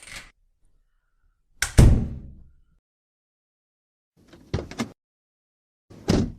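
Car doors opening and shutting: latch clicks, a heavy door slam about two seconds in, then more latch clicks and a second slam near the end.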